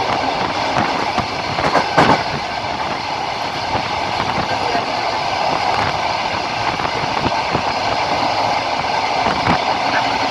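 Passenger train running along the track, heard from inside the carriage at the window: a steady rumble with the wheels clattering over the rail joints, the loudest knocks about two seconds in and near the end.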